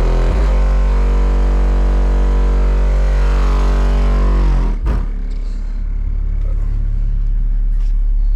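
Loud, deep bass playing through a car's aftermarket bass system driven by a Skar 1500 amplifier, with the bass turned up. A droning pitched tone over the bass falls away a little under five seconds in, leaving the low bass running.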